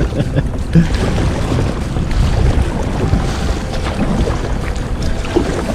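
Wind buffeting the microphone over water moving around a kayak: a steady, loud low rumble.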